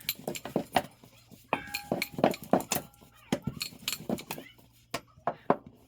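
Kitchen utensils and dishes clinking and knocking: a run of sharp clicks, taps and clatters, with a short ringing note from a struck bowl or utensil about a second and a half in.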